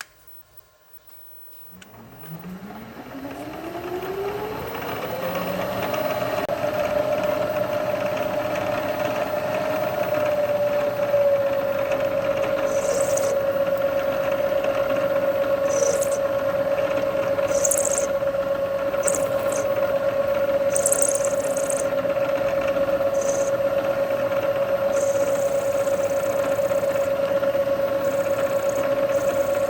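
A machine-tool spindle motor starts about two seconds in, its whine rising in pitch as it spins up, then runs at a steady speed. From about halfway through, short high-pitched hissing bursts come and go as the countersink cuts into the metal part.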